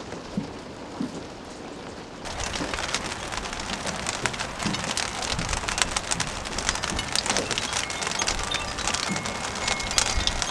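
Heavy rain pouring down, a dense hiss of many sharp drop hits. About two seconds in it becomes louder and closer.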